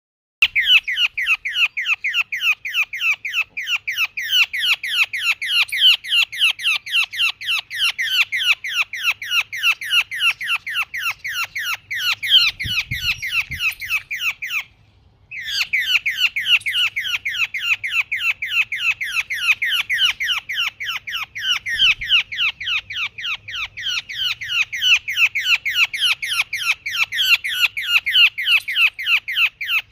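A sparrow chirping over and over, short falling chirps at about three or four a second, with a brief pause about halfway through.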